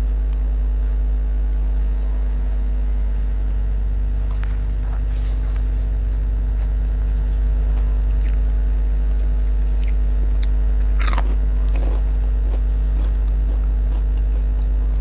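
Close-up chewing and biting of rice and spicy chicken eaten by hand, picked up on a clip-on microphone, with one sharp crunch about eleven seconds in. A steady low hum sits underneath and is the loudest thing present.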